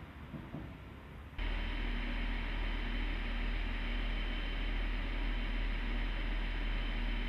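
Quiet outdoor ambience that switches abruptly, about a second and a half in, to the steady hum of a train standing at a station platform: a strong low rumble with a thin high whine over it.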